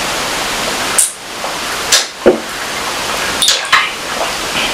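Close-miked eating sounds: wet smacks and clicks of chewing, a few sharp ones about a second, two seconds and three and a half seconds in, over a steady hiss.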